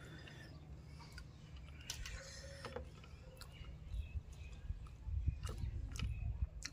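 Hand mixing fish curry and rice on a steel plate, then chewing a mouthful with wet smacking clicks. The chewing grows louder from about four seconds in.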